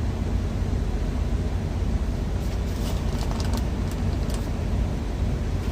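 Steady low rumble of an idling truck engine, heard inside the cab, with a few faint light clicks and crackles around the middle.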